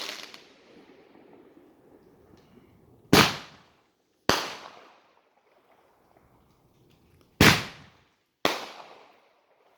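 Fireworks going off: four sharp, loud bangs in two pairs about a second apart, each echoing away. The echo of an earlier bang is still dying out at the start.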